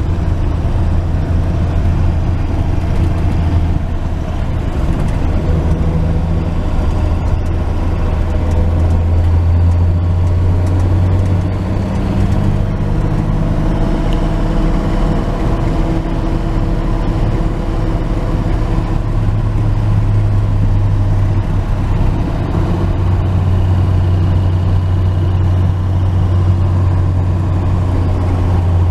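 1949 Chevrolet truck driving, heard from inside the cab: a steady low engine drone with road noise, its pitch shifting up and down a few times as the engine speed changes.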